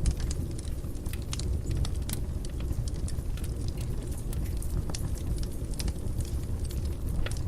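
Wood fire burning in a fireplace, crackling with many scattered sharp pops and snaps over a steady low rumble.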